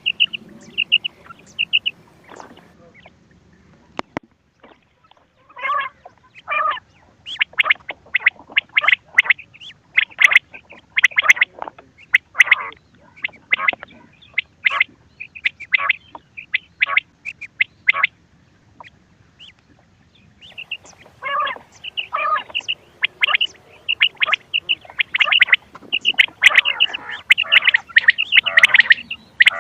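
Quail calling for hunting: rapid runs of short, sharp, high chirping calls. The runs come in bursts, with a pause of a few seconds near the start and another about two-thirds of the way in.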